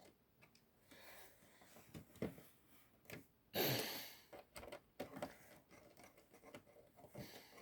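A few faint clicks and taps of plastic and metal parts being handled while fitting the original Xbox's power supply and its screws, with one breathy sigh about three and a half seconds in.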